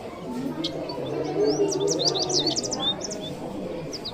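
Small birds chirping in quick runs of short, sweeping high notes, over a steady lower background sound.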